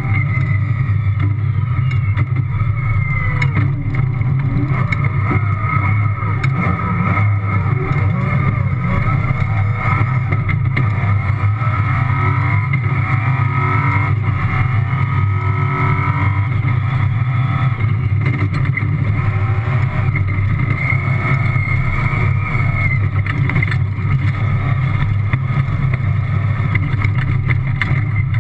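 Toyota rally car's engine running hard, heard from inside the cockpit while driving at speed on a loose track, the revs rising and falling.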